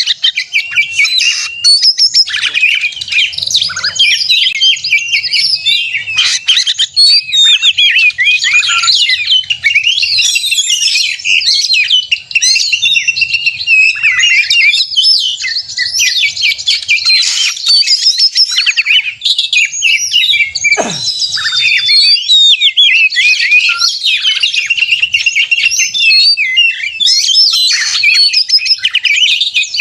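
Oriental magpie-robin (kacer) singing continuously and loudly: a fast, unbroken run of varied whistles, chirps and rapid trills in the agitated 'narung' song used to provoke other magpie-robins into singing. About two-thirds of the way through, one note swoops sharply down in pitch.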